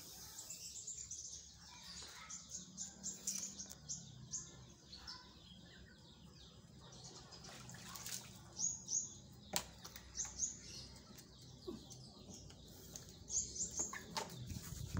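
Small birds chirping in clusters of short, quick, falling high notes that come and go throughout, with one sharp click a little under ten seconds in.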